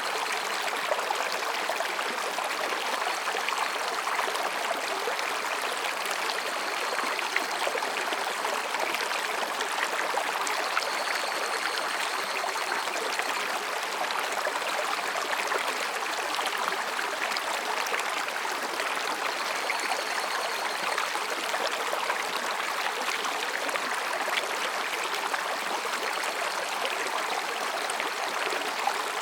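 Mountain stream running steadily over and between rocks, with faint high calls of higurashi cicadas rising and fading several times behind the water.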